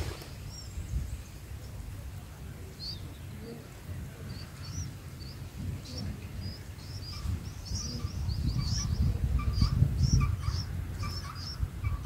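Bulbul nestlings begging with short, high chirps that come faster and thicker as the parent feeds them, over a low rumble.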